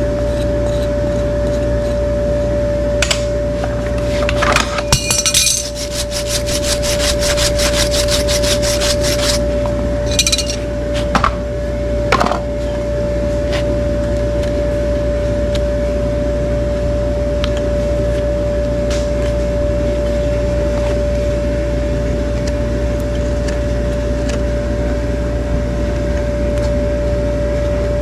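Hoof-trimming tool working on hoof horn: a run of quick, regular strokes, about five or six a second, with a few single knocks before and after, over a steady electrical hum.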